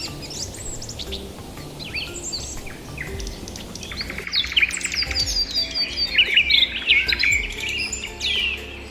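Several small birds chirping and calling: quick high chirps and downward-sweeping notes, with a rapid trill about four seconds in, after which the chirping grows denser and louder.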